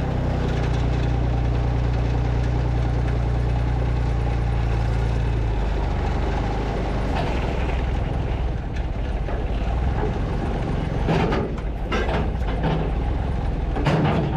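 Truck engine running steady; its even note changes about five seconds in, and a few short knocks come near the end.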